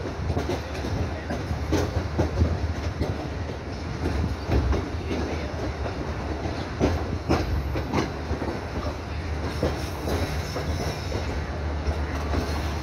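Train heard from aboard a moving carriage: a steady low rumble of the running gear with irregular clacks of wheels passing over rail joints and points.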